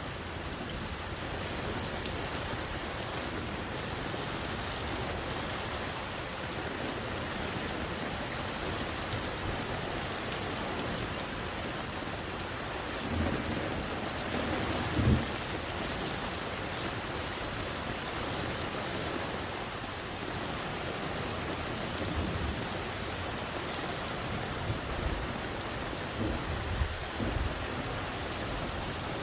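Steady rain falling through a thunderstorm, with low rolls of thunder swelling up about halfway through and again in the last few seconds.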